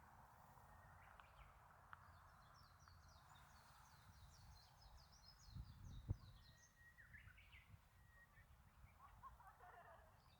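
Faint birdsong: a quick run of short, high chirps for a few seconds, then a single brief call, over a low outdoor rumble, with one soft thump about six seconds in.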